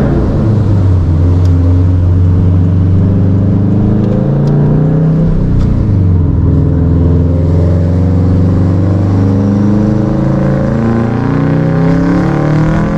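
Subaru WRX STI's turbocharged flat-four with an FP Blue turbo, pulling hard, its engine note climbing and dropping back as it revs, heard through open windows in a tunnel.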